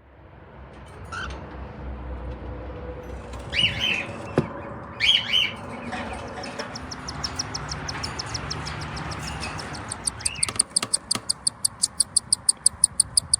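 Small pet bird calling: a few short squawks, then a fast run of high, evenly spaced chirping clicks over the last few seconds.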